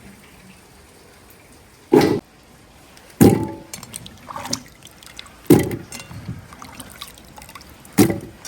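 Four sharp knocks, irregularly spaced a second or two apart, with a few fainter clatters between them.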